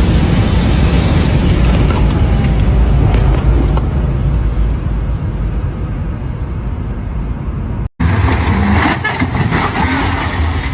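Loud motor-vehicle and road noise that starts suddenly, heaviest at the low end. About eight seconds in it cuts off briefly and gives way to a steady low engine hum with a few clicks.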